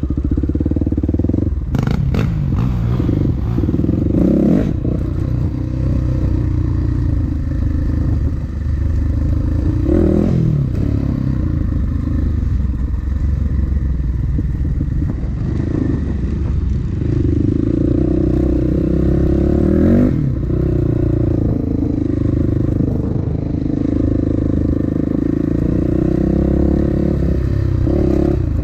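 Dirt bike engine running while being ridden, the revs dropping and climbing again about three times, with a few knocks near the start.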